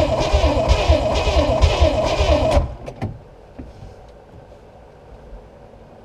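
Starter motor cranking a Chevrolet 350 small block V8 marine inboard, its whine rising and falling with each compression stroke, without the engine catching. The cranking stops suddenly about two and a half seconds in, followed by a single click.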